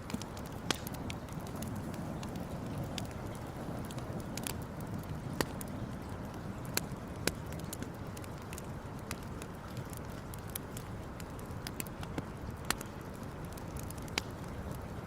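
Campfire burning, with irregular sharp crackles and pops, a handful of them louder, over a steady low rushing noise.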